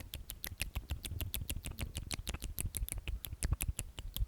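Close-miked ASMR mouth sounds: a rapid, steady run of wet lip smacks and tongue clicks, several a second, from the whispered 'omnomnom' repetition.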